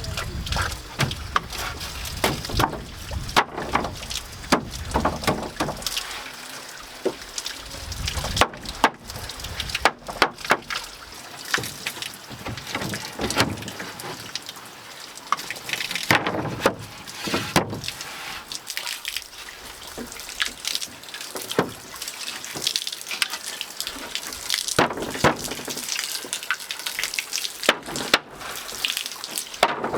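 Water splashing and dripping, with many irregular sharp clicks and knocks.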